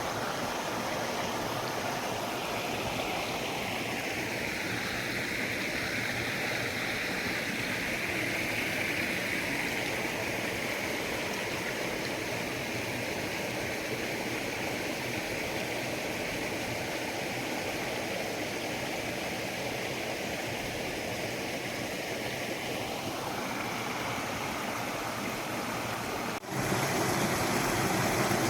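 A river stream running steadily. About two seconds before the end the sound changes abruptly to a louder rush.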